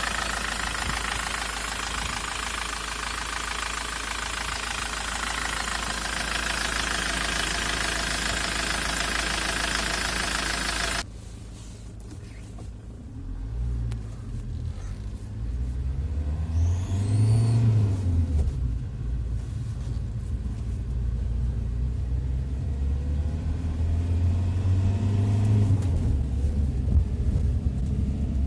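Ford Transit 2.4-litre turbodiesel van engine. A loud, even rushing noise runs for the first part, then cuts off suddenly to the engine running, its pitch rising and falling twice as it revs up and eases off.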